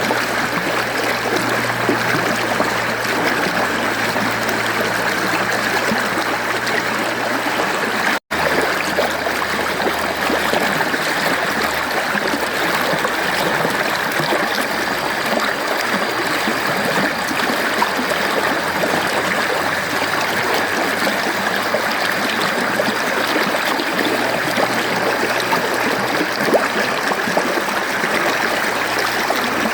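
Mountain stream flowing steadily, a continuous rushing and gurgling of water. The sound cuts out for an instant about eight seconds in.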